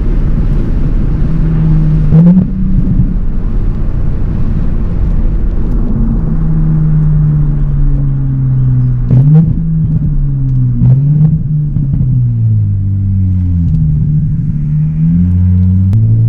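Straight-piped Audi B9 S5's turbocharged 3.0-litre V6 exhaust under way, its note rising and falling as the car pulls through the gears. The pitch drops sharply at the gear changes, with a few short sharp cracks at the shifts.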